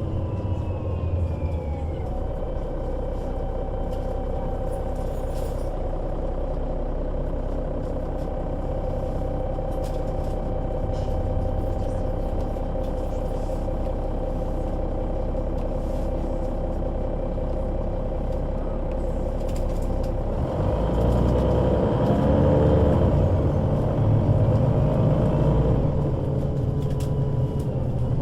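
Solaris Urbino 12 III city bus with a Voith automatic gearbox running under way: steady engine drone with gearbox whine. The whines fall in pitch in the first couple of seconds. About twenty seconds in the sound grows louder and rougher, then settles toward the end.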